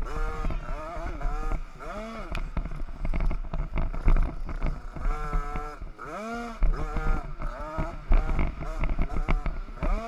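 50cc two-stroke motocross bike engines revving, the pitch climbing and dropping back over and over as the throttle is opened and closed.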